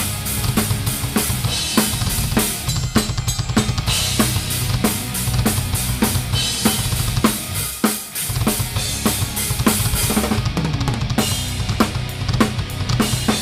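A Pearl Masters drum kit, heard close up, playing a fast, driving beat of bass drum, snare and cymbals, with the rest of the live band underneath. The low end drops out briefly about eight seconds in, then the beat comes back in.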